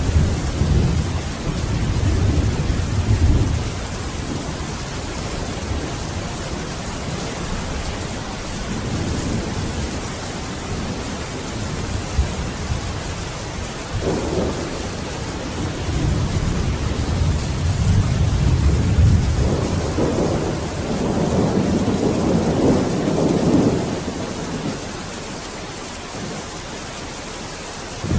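Steady heavy rain with rolling thunder: a long rumble near the start, shorter ones through the middle, and a longer, louder roll from about two-thirds of the way through that dies away near the end.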